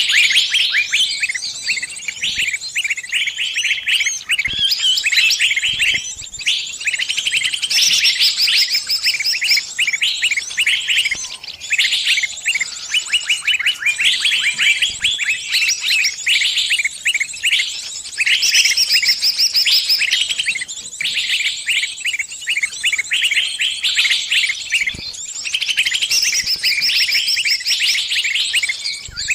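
A bird giving rapid, continuous high chirps and trills with only brief pauses: the distress call of a bird caught in a trap, calling other birds to it.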